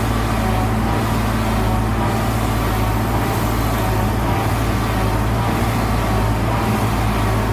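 Diesel engine of a heavy construction machine running steadily at a constant pace, with a deep even hum.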